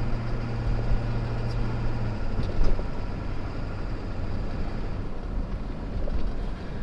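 Car interior noise while driving on the highway: a steady low rumble of engine and tyres, with a steady hum that drops away about two seconds in.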